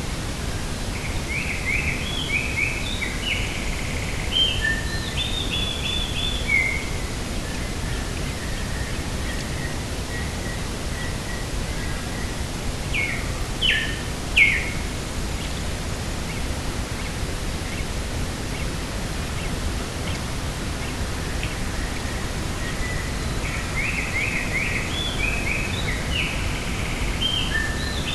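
A steady rush of wind over open country, with a small bird singing quick runs of chirping notes near the start and again near the end, and a few sharp calls in the middle.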